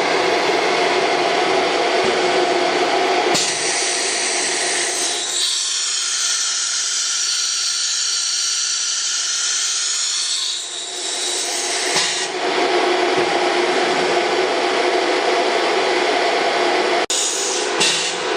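High-speed air-cooled spindle of a CNC router running with a high whine and machining noise. A few seconds in, the sound turns thinner and higher, and the whine wavers up and down for several seconds. It then goes back to the fuller, steady noise.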